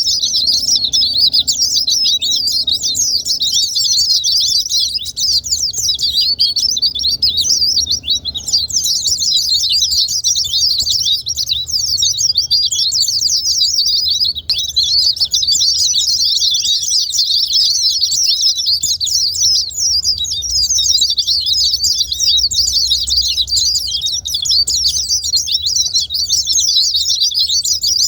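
White-eye (pleci) song: a dense, unbroken stream of rapid, high-pitched twittering. It is a lure recording of the kind played to caged white-eyes to provoke them into singing.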